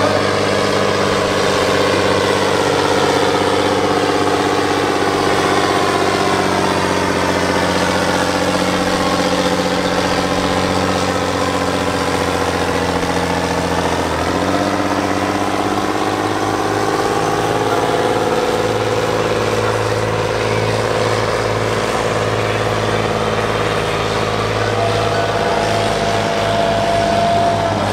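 Fendt Favorit 512c tractor's diesel engine running hard under heavy load while pulling the sled. Its pitch sags slowly, drops sharply about halfway through, then climbs back up. A steady high tone joins near the end.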